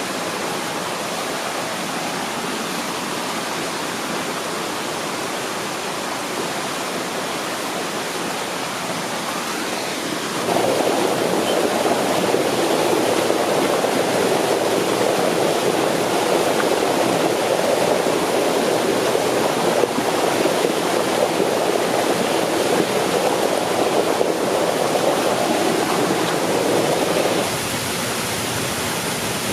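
Waterfall: a steady rush of falling water. From about ten seconds in the rush grows louder and deeper, then drops back abruptly near the end.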